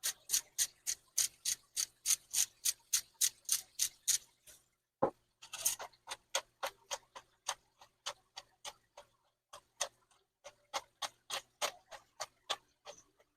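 Spice shaker shaken over food in quick rhythmic strokes, crisp rattling shakes about five a second, then slower and uneven. One heavier knock about five seconds in, like a container set down.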